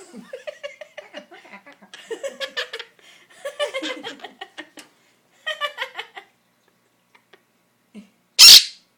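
High-pitched giggling laughter in short choppy runs, then one short, very loud sharp burst near the end.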